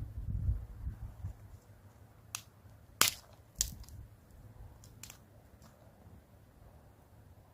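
A few sharp, separate snaps or cracks, the loudest about three seconds in, over a quiet background.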